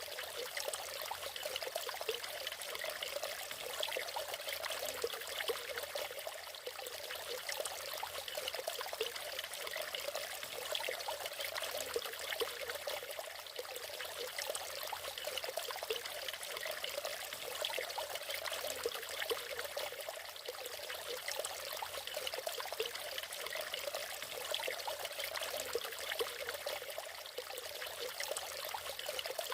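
Natural waterfall with water splashing and trickling steadily, a bright, even sound with little deep rumble.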